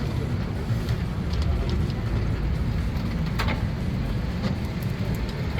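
Steady low rumble of city street traffic, with a few faint clicks over it.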